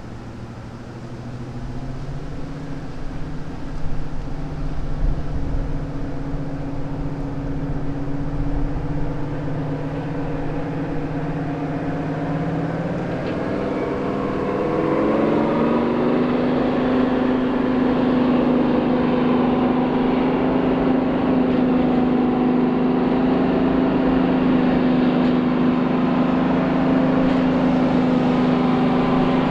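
Class 55 Deltic diesel locomotive's Napier Deltic two-stroke engines working, growing louder as it approaches. About halfway through, the engine note rises in pitch and then holds steady and louder.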